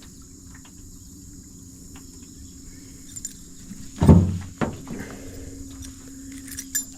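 Insects droning steadily in a high, even tone, with a loud thump about four seconds in and a smaller one just after.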